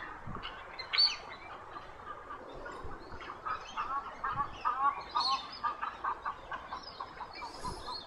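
Wild birds calling: a busy chorus of short, quickly repeated chirps, with scattered higher notes and one louder call about a second in.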